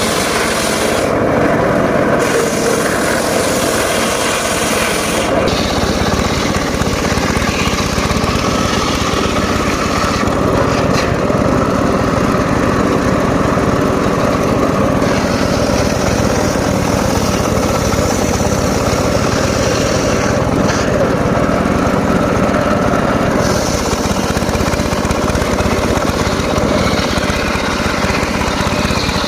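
Homemade circular saw rig running steadily with a motor drone while sawing mahogany wood; the low drone gets heavier about five seconds in.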